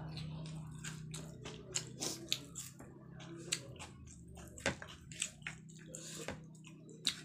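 Close-miked eating sounds: chewing and wet mouth smacks, a string of irregular sharp clicks, with fingers mixing rice on a plate. A faint steady low hum lies underneath.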